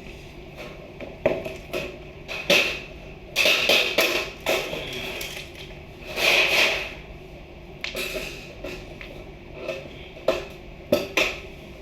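Irregular knocks and clatters of hand tools at work on building materials, with a few longer scraping, rasping bursts.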